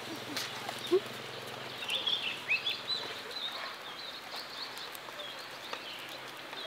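Birds chirping in short calls over a steady outdoor background hiss, with one sharp knock about a second in.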